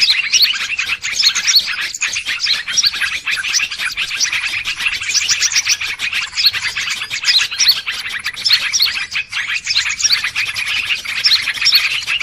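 Dense chorus of many small birds chirping and calling over one another without pause, a busy, noisy flock sound. It is a lure recording meant to draw wild birds in.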